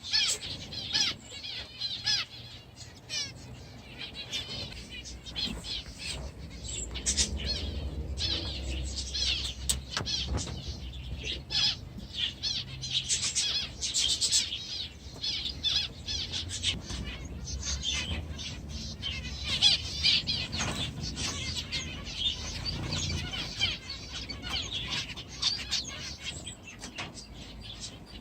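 A flock of aviary finches chirping and twittering continually in rapid short calls, with the flutter of wings as birds fly about.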